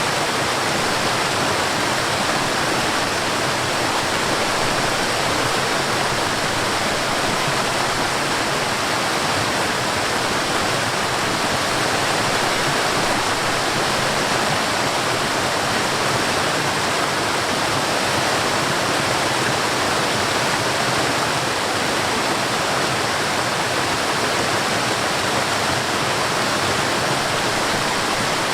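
Steady rushing of water from a mountain stream and waterfall.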